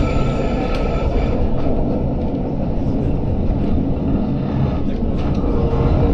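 Passenger train running along the track, a steady rumble heard from inside the carriage, with a few sharp clicks and a thin high tone that fades out about a second in.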